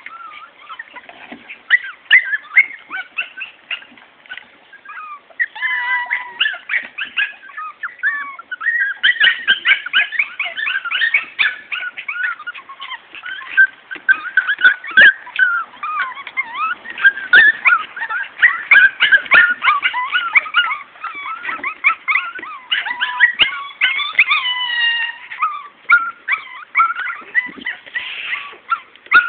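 Several Morkie puppies yipping and whimpering in many quick, high-pitched, overlapping squeaks, growing busier about nine seconds in.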